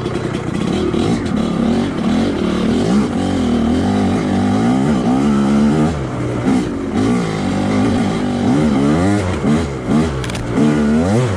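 Two-stroke dirt bike engine revving up and falling back again and again as the rider works the throttle over trail obstacles.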